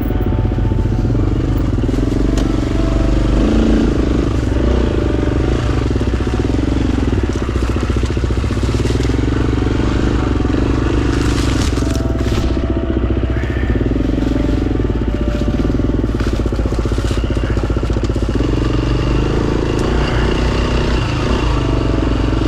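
Dirt bike engine running continuously, revving up and down over and over as the bike is ridden slowly along rough single track.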